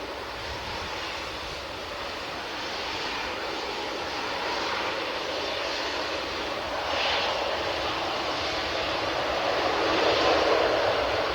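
Airliner engines passing at the airport: a steady rushing drone that grows louder toward the end.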